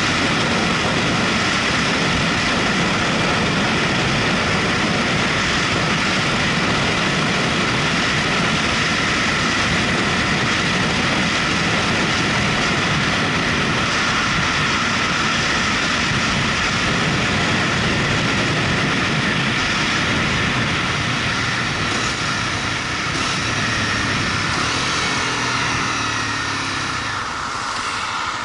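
Motorcycle on the move, its engine and road noise running steadily and loudly, easing off a little over the last few seconds.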